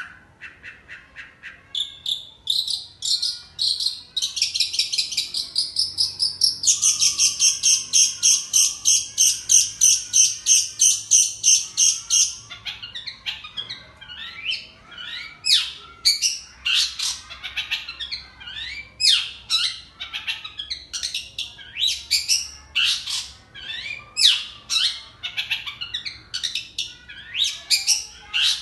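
Long-tailed shrike (cendet) singing. It opens with a fast, even run of high chirps, about four a second, like a cricket's chirping, then breaks into varied sweeping chirps and calls about halfway through.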